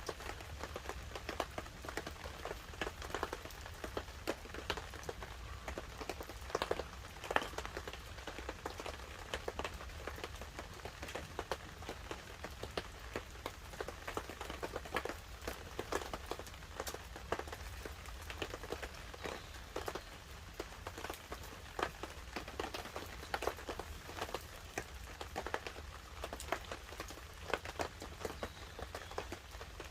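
Light rain pattering on a tarp while a wood fire crackles beneath it: a dense, irregular stream of small ticks and pops over a low steady rumble.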